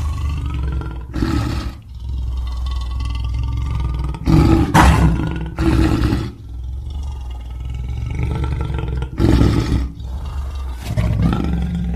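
Lion roaring: a deep, continuous rumble with several louder roars rising out of it, about a second in, from about four to six seconds, around nine seconds and near the end.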